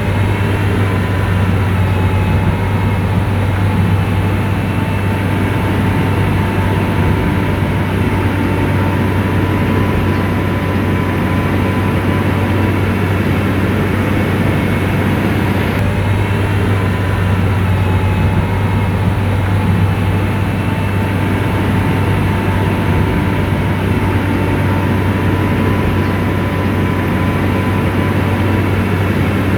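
Komatsu bulldozer's diesel engine running steadily, a deep low drone with a faint steady whine above it.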